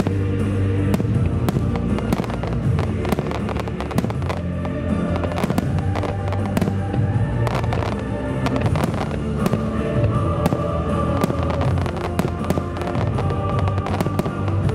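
Rapid barrage of fireworks shells bursting and crackling in quick succession, over loud music played through the show's speakers.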